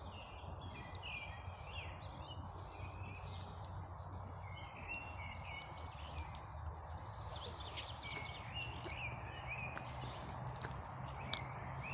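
Small campfire of birch bark and kindling crackling with scattered sharp snaps, while songbirds chirp in short gliding notes.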